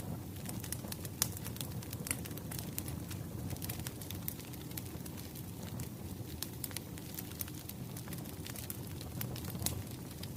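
Firewood burning: a steady low rumble with irregular sharp crackles and pops, the loudest about a second in and again near the end.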